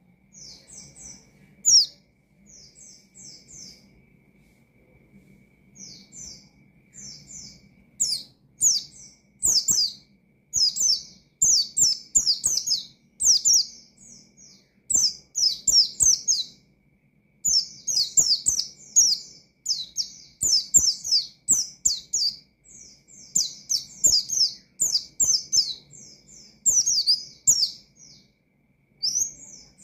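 White-eye (pleci) singing in rapid high chirping phrases. The song is sparse and softer for the first several seconds, then from about eight seconds in it runs dense and nearly without pause: the vigorous 'gacor' song that keepers play to provoke rival white-eyes.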